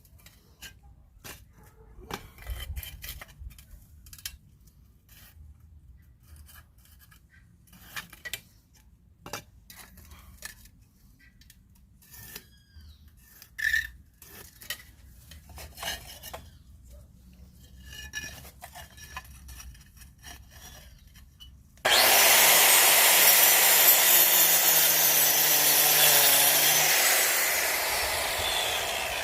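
Scattered light taps, clicks and scrapes from handling and fitting refractory bricks, then about twenty seconds in a power cutter starts abruptly and grinds loudly through refractory brick, its motor note sinking under load and the noise easing off near the end.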